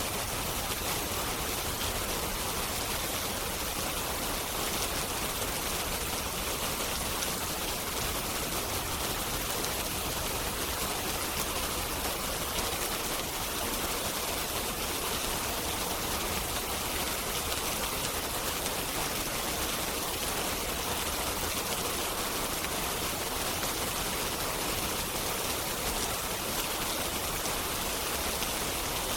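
Steady rain, an even hiss with no breaks or swells.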